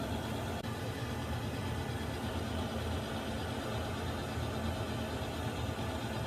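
Water heater running: a steady low rumble with an even hiss above it, unchanging throughout.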